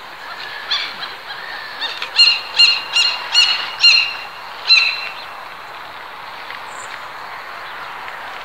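A bird calls in a quick run of about six loud calls, two to three a second, beginning about two seconds in, then gives one more call shortly after. A steady hiss sits underneath.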